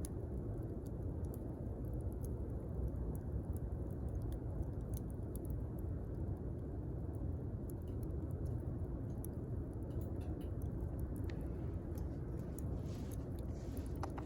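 Wood campfire burning: a steady low rumble with scattered sharp crackles and pops.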